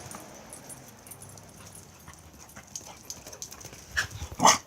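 A pet dog gives two short, sharp yips near the end, the second louder.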